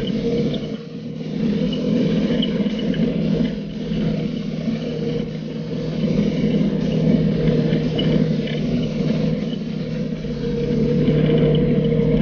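Polaris RZR 570 side-by-side's single-cylinder engine running under way on a trail, easing off about a second in and again around four seconds, then pulling harder near the end.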